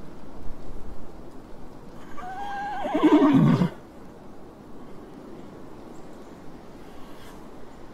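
A horse whinnies once, about two seconds in. It is a wavering high call that drops to a lower pitch and lasts about a second and a half, over a steady low background noise.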